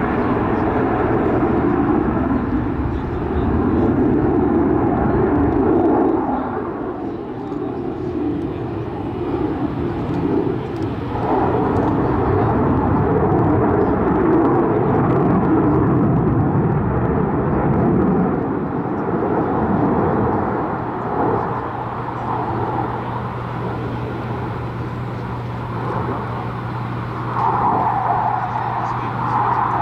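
Jet noise from a Boeing F/A-18 Super Hornet's twin General Electric F414 turbofans during a display flight, a continuous rushing roar that swells and fades several times as the jet manoeuvres.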